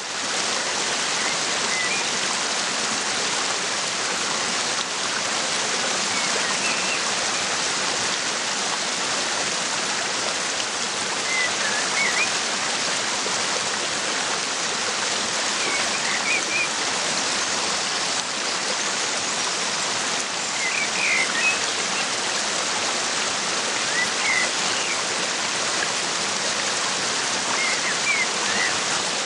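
Waterfall pouring steadily, with short bird chirps breaking through every few seconds.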